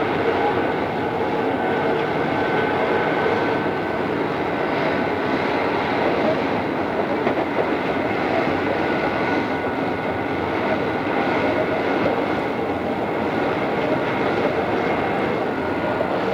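Odakyu 2600 series electric train running steadily at speed, a constant mix of wheel-on-rail rumble and motor and gear noise with faint steady whines, from an old cassette-tape recording.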